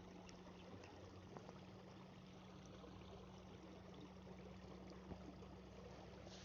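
Near silence: faint marsh ambience with a steady low hum and a few soft ticks, perhaps light water movement.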